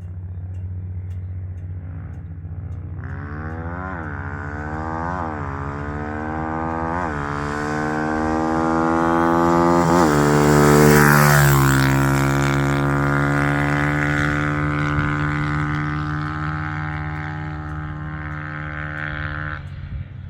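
Single-cylinder 150cc pit bike engine accelerating up through the gears. The pitch climbs and drops back at each shift, four times in the first half. It gets louder to a peak about halfway through and then fades away.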